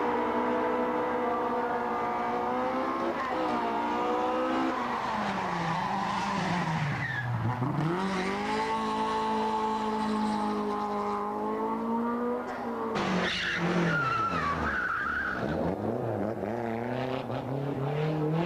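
Rally car engine held at high revs, its note falling away twice and climbing again as it comes off and back on the throttle. Tyres squeal briefly about two-thirds of the way through, after the second drop in revs.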